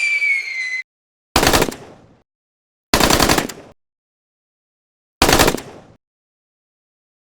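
A falling whistle that cuts off sharply, then three short bursts like rapid gunfire, each dying away quickly, with dead silence between them: edited-in sound effects.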